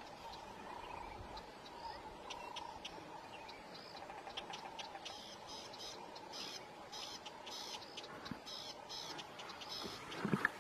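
Wild birds chirping, a series of short high calls that come thick and fast from about halfway through, over a faint steady background. A brief louder low sound near the end.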